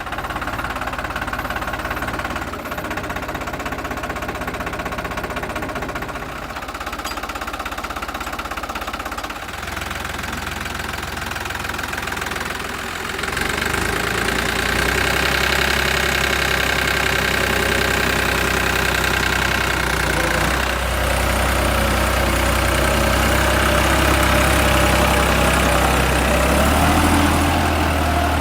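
Tractor engine running steadily, growing louder about halfway through and holding there.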